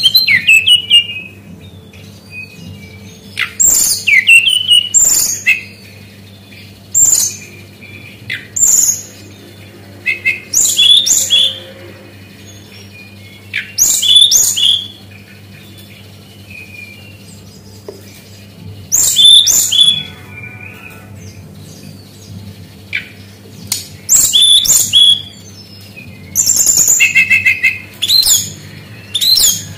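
Brown-chested jungle flycatcher singing: short, loud, high-pitched phrases of quick notes repeated every one to three seconds. A steady low hum runs beneath.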